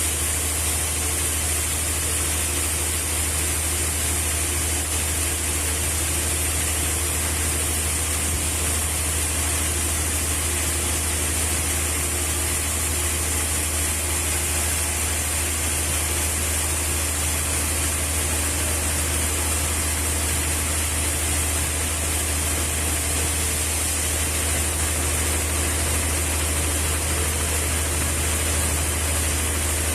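Steady drone of running machinery: a low hum with a high hiss over it, holding level with no cuts or knocks.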